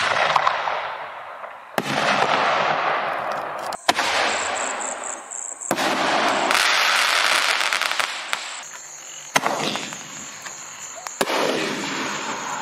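Aerial firework shells bursting and crackling, heard as a run of short clips cut together, with abrupt changes about every two seconds. A thin, steady high tone sounds over parts of the later clips.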